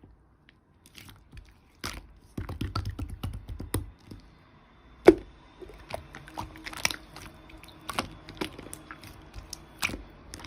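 Slime being squished and worked by hand, with a run of sticky crackles and small popping clicks and one louder pop about five seconds in.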